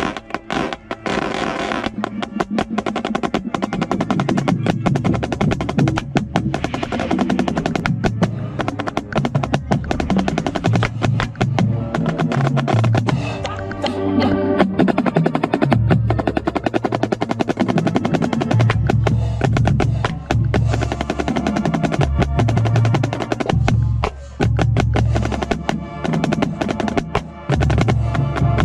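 Marching snare drum played right at the microphone, fast strokes and rolls, over a full marching band playing with the rest of the drumline.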